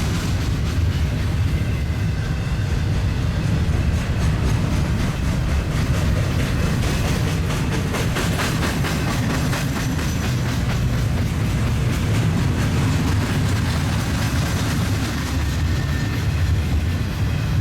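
Long double-stack container freight train rolling past close by: a steady heavy rumble of steel wheels on rail, with a run of clickety-clack clicks from the wheels over rail joints about halfway through.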